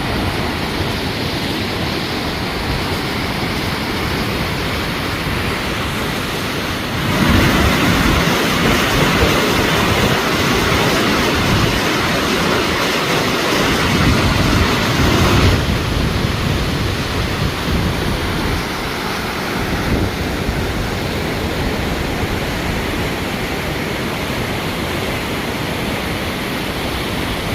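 Rushing water of a river, a steady loud roar that grows louder from about seven seconds in and drops back abruptly about halfway through.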